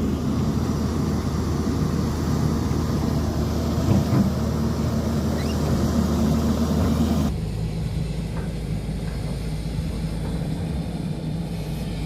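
Heavy construction machinery diesel engines running steadily with a low hum, changing abruptly to a different, slightly quieter engine sound about seven seconds in.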